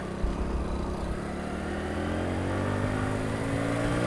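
Motorcycle engine running under the rider, its pitch climbing slowly and steadily as the bike gathers speed.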